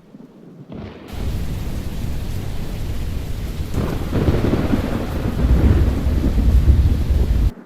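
Thunder rumbling with rain, a deep continuous rumble that swells about four seconds in and cuts off abruptly near the end.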